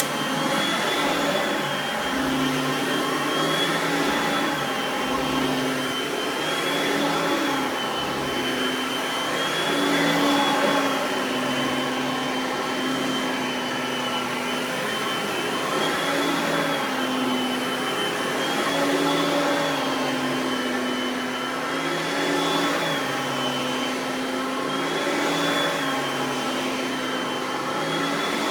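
Oreck XL Platinum upright vacuum running on carpet, its motor pitch rising and dipping slightly about every three seconds as it is pushed back and forth.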